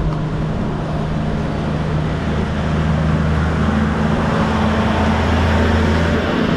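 A motor vehicle's engine running steadily close by, a low hum whose tone shifts slightly partway through, over road noise.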